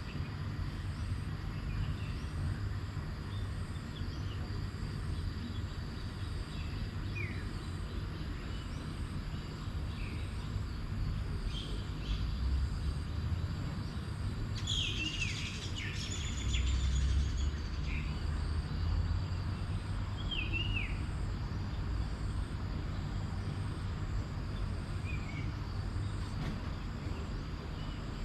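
Outdoor ambience with birds giving short, falling chirps every few seconds and a busier flurry of calls about halfway through. Under them run a steady high pulsing buzz and a low rumble.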